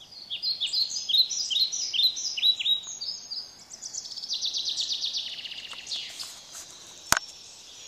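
Songbirds singing: a run of short, high, down-slurred notes about two a second, then a long rapid high trill. A single sharp click comes about seven seconds in.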